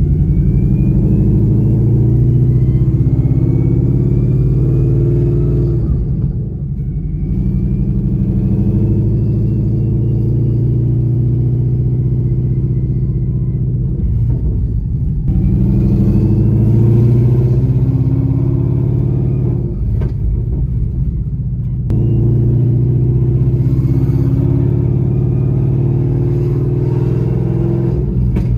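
Ford Coyote 5.0 V8 in a Mustang accelerating in several long pulls, heard from inside the cabin. It eases off briefly about six seconds in, again around fourteen seconds and around twenty seconds. A faint whine rises in pitch with each pull.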